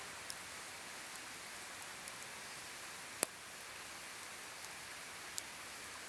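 Wood campfire crackling: scattered sharp pops over a steady hiss, the loudest pop about three seconds in.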